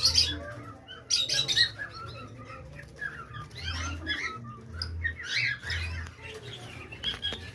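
Several small birds chirping and calling over one another in quick, overlapping notes. There are short loud noisy bursts at the start and again about a second in.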